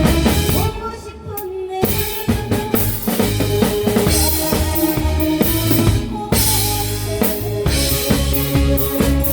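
Live band rehearsing: a drum kit with kick drum and snare keeps a beat under sustained pitched instrument parts. The low end drops out briefly about a second in, then the drums come back in.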